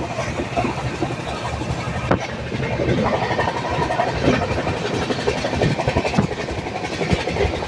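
A passenger train running at speed, heard from inside the coach at an open barred window: a steady rumble and rattle of the carriage on the track, with a few brief knocks from the wheels.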